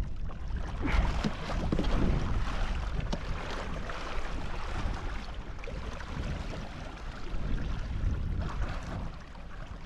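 Wind buffeting the microphone over water washing and splashing around a windsurf board in shallow, muddy water.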